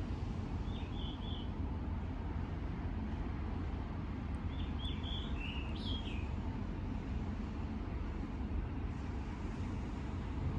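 A bird chirping in two short bursts of calls, a few seconds apart, over a steady low rumble.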